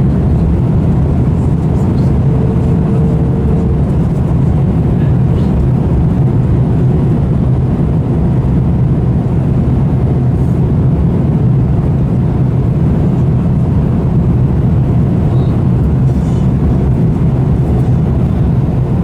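Steady low rumble of an airliner's jet engines and airframe, heard inside the passenger cabin.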